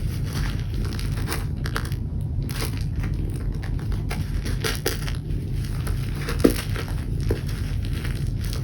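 Crinkly rustling and small scattered clicks over a steady low rumble, with one sharper click about six and a half seconds in.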